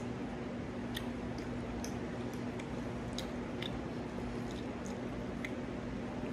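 A person chewing food, with scattered wet mouth clicks and smacks over a steady low hum.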